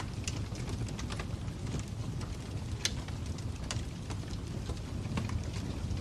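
Wood fire crackling: irregular sharp pops and snaps over a steady low rumble, with one louder pop a little under three seconds in.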